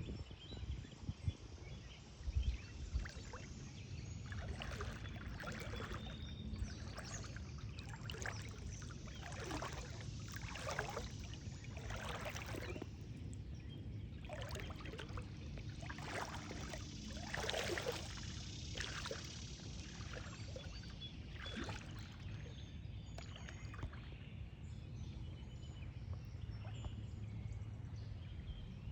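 Shallow lake water splashing and sloshing with the steps of someone wading, about one splash a second through the middle stretch, over a low steady rumble.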